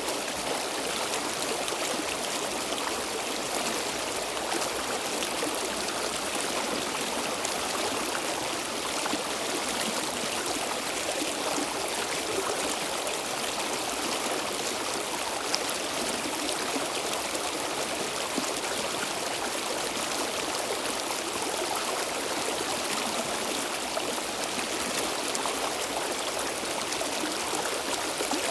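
A stream of water flowing and babbling steadily, an even rushing with no breaks.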